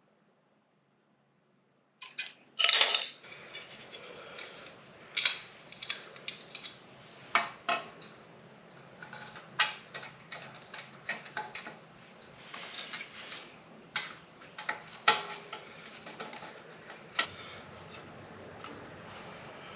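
Hand tools and metal parts clinking and tapping in an irregular series of sharp clicks and knocks, as during work on a motorcycle exhaust. The first two seconds are silent, and the loudest knock comes about three seconds in.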